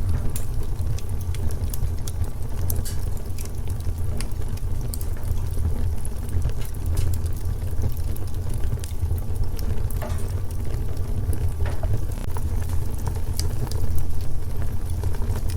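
Wood fire in a fireplace crackling: scattered sharp pops and snaps over a steady low rumble.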